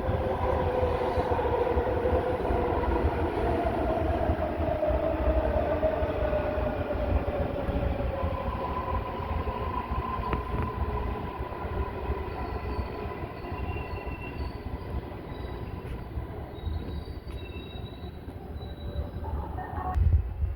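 MARTA rapid-transit train with its motor whine falling in pitch over a steady rumble as it slows. It then gives a steady higher tone, with brief faint high squeals. A loud knock comes near the end.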